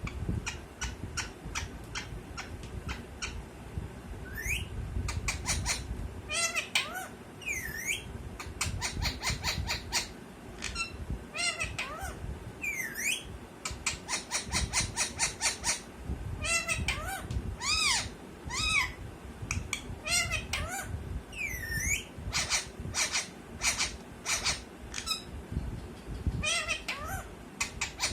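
Parrot vocalizing: quick runs of sharp chattering chirps, mixed with squawks and whistled notes that rise and fall in pitch, repeating throughout.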